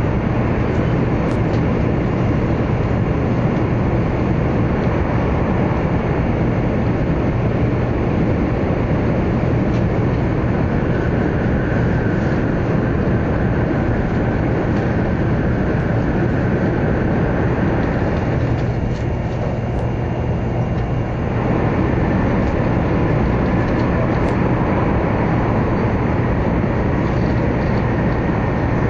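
Steady running noise heard inside a 100 Series Shinkansen passenger car as the train travels through a tunnel: a constant low rumble and rushing roar. The noise dips slightly for a few seconds about two-thirds of the way through.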